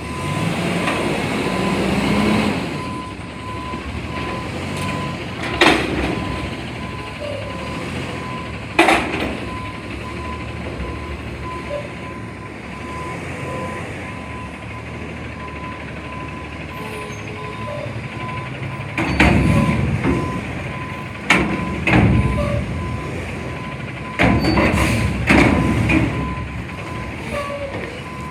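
Front-load garbage truck at work: the engine runs steadily while a backup alarm beeps over it, and loud metal clanks and bangs come once near the start and then in a cluster in the second half, as a dumpster is lifted and emptied.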